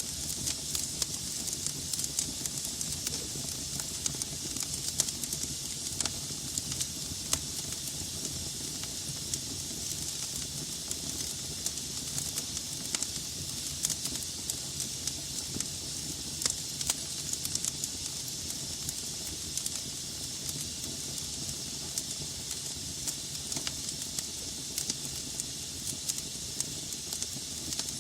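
Wood fire burning in a fireplace: logs crackling with frequent sharp pops and snaps over a steady hiss and a low rumble of the flames.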